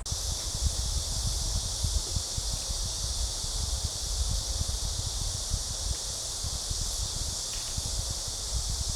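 Steady chorus of cicadas, a dense high-pitched drone, over low gusts of wind rumbling on the microphone.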